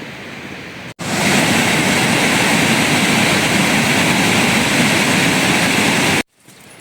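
A loud, steady rushing noise that starts abruptly about a second in and cuts off sharply near the end.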